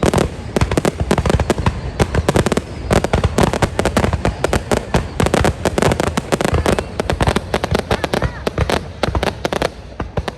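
Fireworks display: dense, rapid bangs and crackle from bursting shells, many a second without a break.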